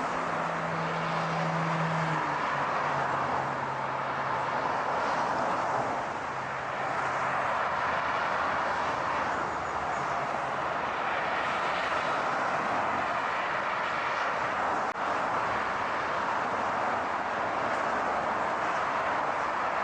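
Steady rushing noise of a car driving, tyres and engine. A low engine hum steps down in pitch about two seconds in and fades out around ten seconds in.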